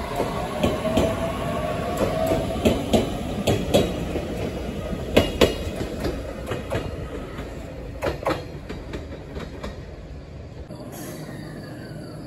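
Commuter train passing close by, its wheels clacking over rail joints in clusters of sharp clicks, with a steady wheel squeal in the first couple of seconds; the clacks thin out and fade about eight seconds in.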